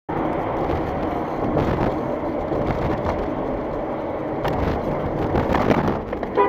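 Steady engine and road noise of a moving car, with a few sharp knocks partway through.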